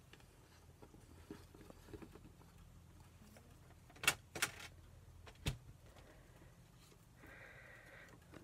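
Pens being handled on a desk, with a few sharp clicks about four seconds in and another a second later, over quiet room tone.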